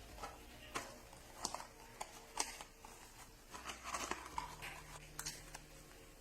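Irregular light clicks and knocks, about a dozen, over a faint steady hum.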